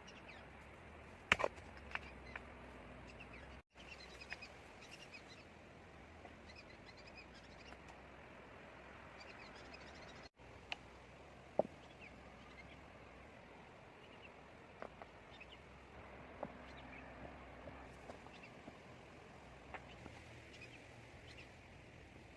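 Faint outdoor ambience with scattered short bird chirps and a few sharp clicks or knocks. The sound cuts out briefly twice.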